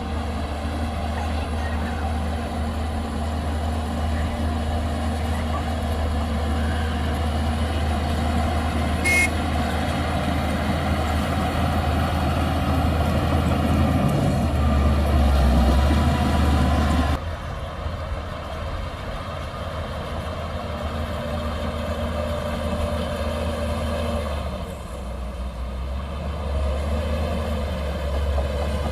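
Heavy bulldozer's diesel engine running hard and steady, with a brief sharp click or clink about nine seconds in. About halfway through it drops suddenly to a quieter, lower running sound, then picks up again near the end.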